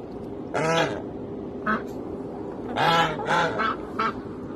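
Domestic goose honking: a loud call just after the start, a short note in the middle, then three honks in quick succession about three seconds in and a brief last note.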